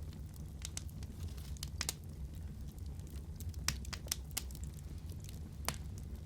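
Wood fire burning in a fireplace: a steady low rumble of the flames with irregular sharp crackles and pops from the burning logs, the loudest pops a little past the middle and near the end.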